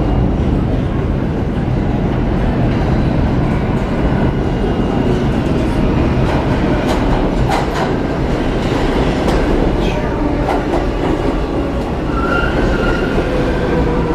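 New York City subway train running on the rails with a loud, steady rumble. A few sharp clacks come in the middle, and a high, thin wheel squeal starts near the end.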